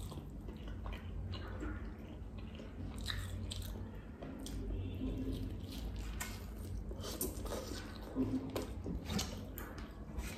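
Close-miked eating of roast beggar's chicken: biting and chewing, with irregular mouth clicks and the meat being torn by hand.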